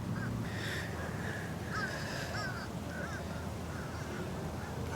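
Birds calling: a run of short, repeated chirping calls, one or two a second, over a steady low hum.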